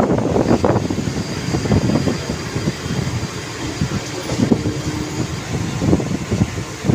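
Train running on the tracks: a steady rumble with dense rapid knocks and rattles, easing slightly midway and picking up again near the end.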